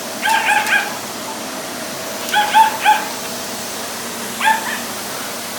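Shiba Inu giving short, high-pitched yips in quick runs of three, twice, then once more near the end, over a steady background hum.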